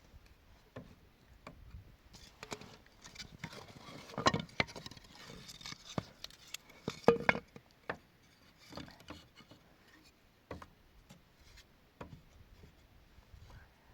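Scattered knocks, taps and rubbing of objects being handled, loudest in two clusters about four and seven seconds in.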